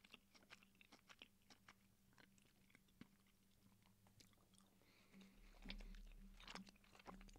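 Very faint close-miked chewing of gummy sour candies (cola Sour Patch Kids): soft, scattered wet mouth clicks, with a slightly louder stretch of faint noise about five seconds in.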